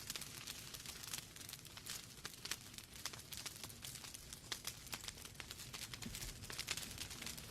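Wood fire burning in a fireplace: logs crackling and popping in many irregular sharp snaps over a soft steady hiss and low rumble of the flames.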